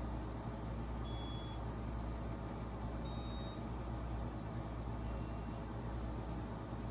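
Casablanca Stealth ceiling fan running in its demo mode, its control beeping three times about two seconds apart, each short beep at a slightly different high pitch, over the steady low hum of the running fan.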